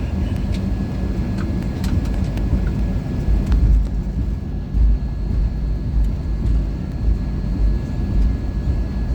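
Boeing 737-800 cabin noise: a steady low rumble with a faint constant tone and scattered light clicks and rattles.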